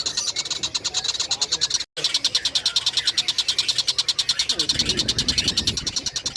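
Tengkek buto kingfisher's call, a fast high-pitched chatter of rapid even pulses, about ten a second. It breaks off for an instant about two seconds in, where the looped recording restarts. A lower, rougher sound joins it for about a second near the end.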